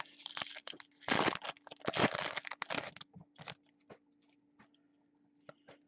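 A foil trading card pack wrapper being torn open and crinkled, loudest about one second and two seconds in, followed by faint small clicks of cards being handled.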